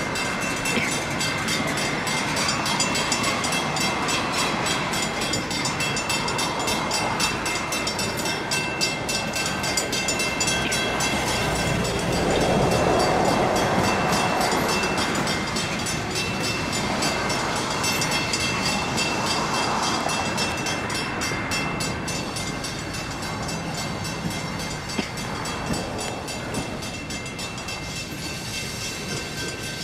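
Freight train with tank cars rolling through a grade crossing, with a rumble that swells louder about twelve seconds in. Over it, the crossing's mechanical warning bell rings in a rapid, even rhythm.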